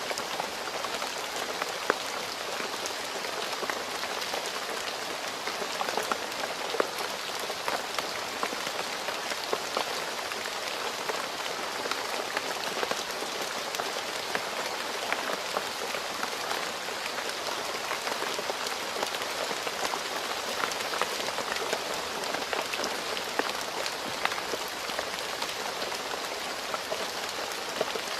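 Steady rain falling on a road surface, an even hiss dotted with the sharp ticks of individual drops.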